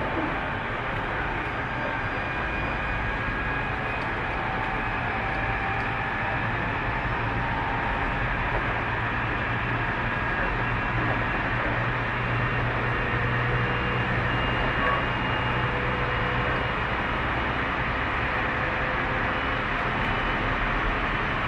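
Tobu 30000 series electric train running at a steady speed, heard from inside the passenger car: a steady rolling rumble with faint, even motor whine tones over it.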